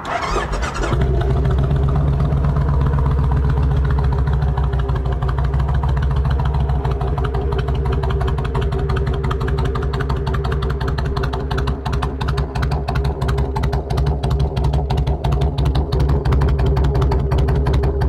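A 2007 Kawasaki Vulcan VN1600's liquid-cooled 1600cc V-twin starting up within the first second, then idling steadily through aftermarket Vance & Hines exhausts.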